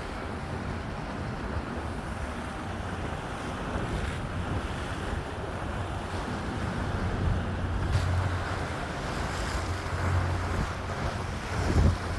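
Wind on the microphone over washing water and a steady low rumble.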